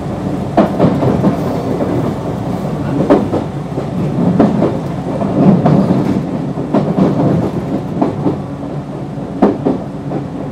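JR West 221 series electric train running between stations: a steady rumble and hum of the running gear and DC traction motors, with the wheels knocking over rail joints in quick pairs every second or two.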